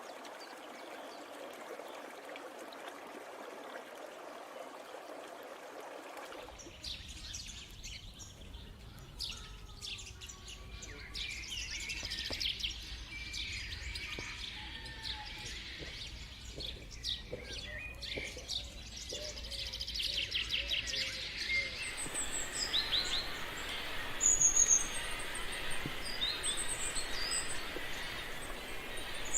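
A steady hiss of running water for about the first six seconds, then an abrupt change to many birds chirping and singing. About two-thirds of the way through, a higher, brighter set of chirps takes over.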